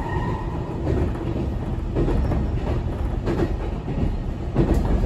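Commuter train running at speed, heard from inside the passenger car: a steady low rumble with the repeated clack of the wheels over rail joints.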